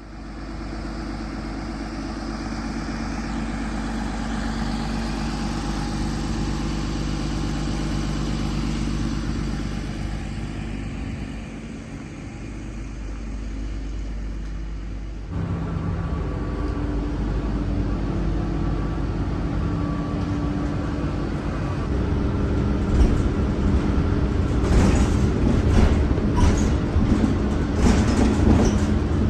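City bus running steadily, with knocks and rattles growing louder over the last several seconds.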